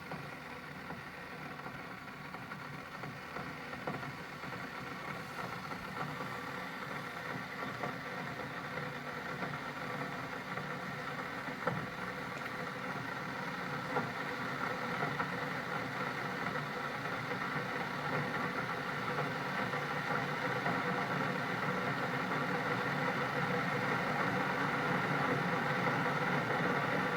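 Keurig K-Compact coffee maker heating its water after being switched on: a steady hum and hiss that grows gradually louder.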